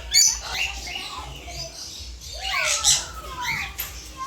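Parrots screeching and chattering, with loud harsh squawks just after the start and again about three seconds in.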